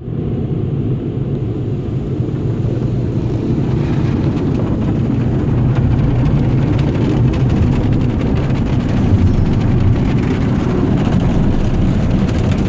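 Automatic truck wash running around the truck, heard from inside the cab: a loud, steady low rumble.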